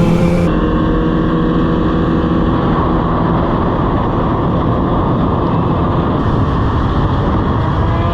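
Motorcycle cruising at freeway speed: a steady engine tone under heavy wind rush, with the wind noise taking over after a couple of seconds.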